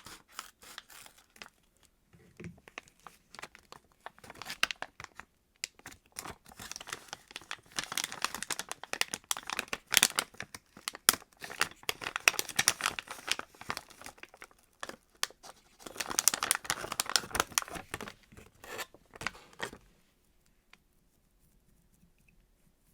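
Plastic packaging crinkling and tearing while a squishy toy is unwrapped, in dense crackling rustles that stop suddenly about 20 seconds in.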